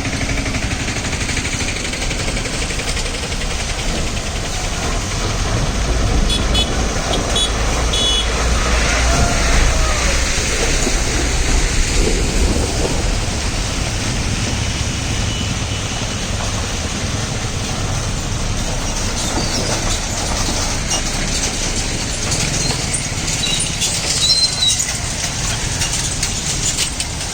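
Loaded Ashok Leyland lorry's diesel engine running under load as the truck crawls over a broken road, a continuous low rumble that swells between about 4 and 13 seconds in.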